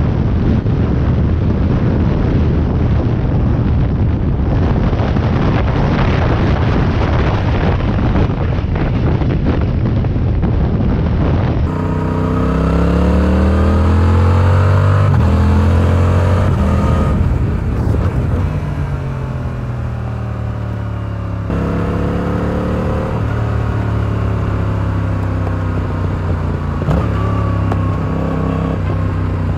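Stock 2022 Yamaha R7's 689 cc parallel-twin engine and exhaust, heard from the bike while riding. For the first part it is a dense rush of engine and road noise at speed with no clear pitch. Then the revs climb steeply as the bike accelerates, fall away as it slows, and near the end the engine runs at a steadier pitch with brief rises.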